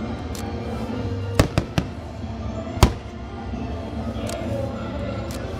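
Aerial fireworks shells bursting with sharp bangs, three in quick succession about a second and a half in and one more near the three-second mark, over music playing throughout.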